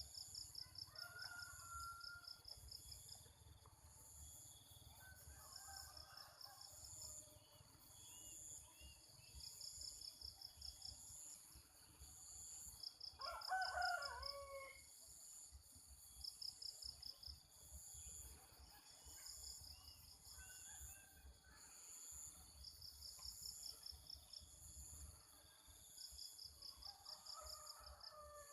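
Rooster crowing once, about halfway through, over constant insect trilling that comes in pulsed bursts a couple of seconds long. Fainter distant bird calls are heard near the start and near the end.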